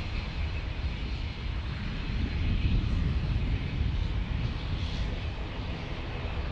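Jet airliner's engines rumbling as the plane passes, growing louder about two seconds in.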